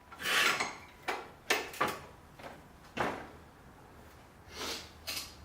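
Metal parts and tools being handled in a workshop: a series of short scrapes and clunks, about seven in all, the longest in the first second.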